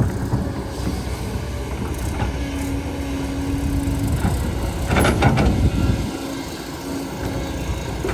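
Engine of heavy earth-moving machinery running with a steady low rumble. A steady whine holds for about two seconds near the start, and a sharp clank comes about five seconds in.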